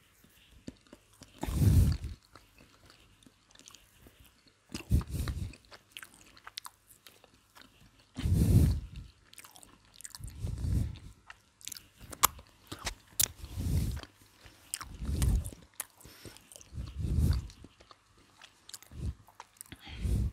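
Close-miked chewing and crunching of cold McDonald's fried chicken with a crispy coating, in about nine bursts of roughly a second each. Fine crackles come between the bites.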